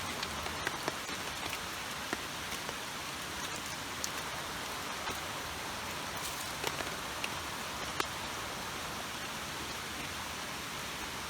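Heavy rain from a sudden downpour falling steadily, with scattered sharp ticks of single drops striking close by.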